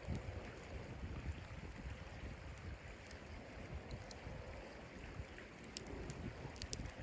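Steady low wind rumble, with scattered sharp crackling pops, a few clustered near the end, like a wood stove fire crackling.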